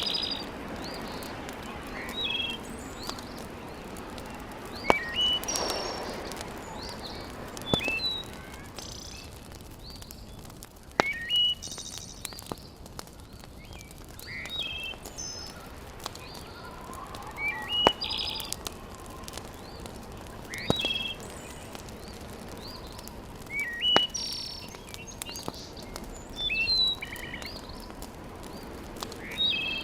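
Wood fire burning in a fireplace, with a steady soft crackle and a sharp pop every few seconds. A bird sings short chirping phrases every few seconds.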